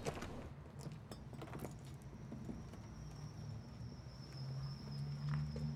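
Footsteps and scattered taps on a concrete alley path as several people walk away. A thin steady high tone comes in about halfway, and the low hum of a vehicle swells near the end.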